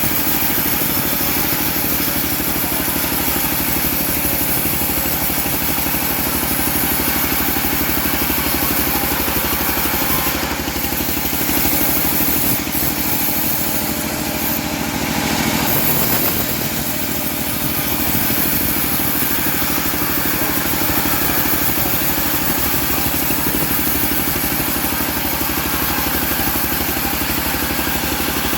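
Engine of a homemade bandsaw mill running steadily with even firing pulses, as it saws a teak log, swelling a little partway through.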